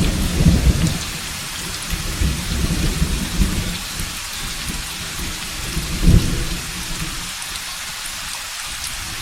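Steady rain with rolling thunder: deep rumbles come in the first second and again about six seconds in, then die away, leaving the rain hiss alone near the end.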